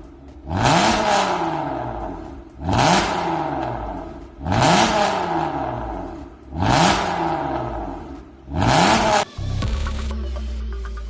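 Hyundai Grandeur IG engine revved five times through an aftermarket valved exhaust, about every two seconds; each blip climbs quickly and then dies away. Near the end the revving stops and background music comes in.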